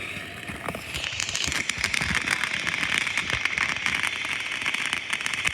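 Fireworks crackling: a dense run of rapid small pops that starts about a second in and keeps going.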